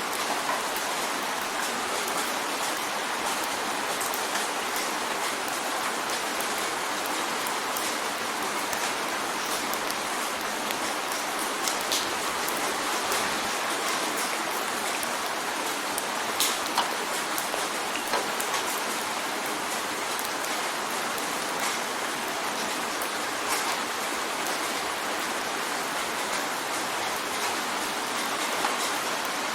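Steady rain on a window pane, with scattered sharper drop taps against the even patter.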